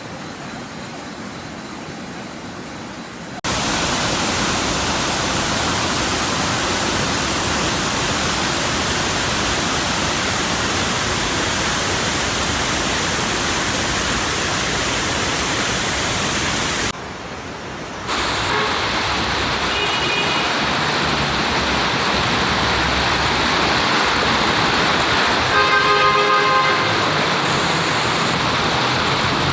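Loud, steady rush of floodwater that jumps louder about three seconds in and breaks off briefly around the middle. Near the end a vehicle horn sounds for about a second.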